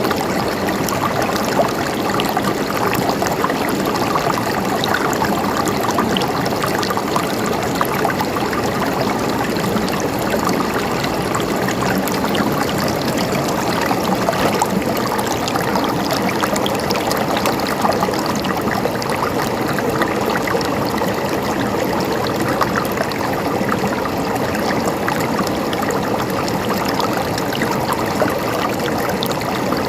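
A river's water flowing steadily over rocks, a dense, even rush with fine splashing and trickling.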